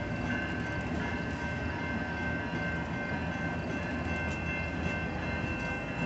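Empty intermodal freight cars rolling past on the rails, a steady rumble with faint steady high tones above it.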